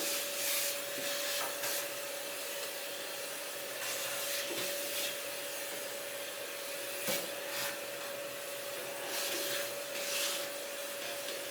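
Vacuum cleaner running with a steady whine while the inside of a wood-burning stove is scrubbed and brushed clean of soot, with repeated rubbing strokes and a few light knocks.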